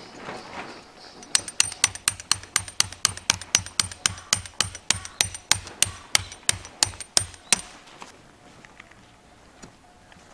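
A hammer driving a tent stake into the ground: a fast, steady run of about twenty-five strikes, four to five a second, that stops after about six seconds. Shortly before the hammering there is a brief rustle.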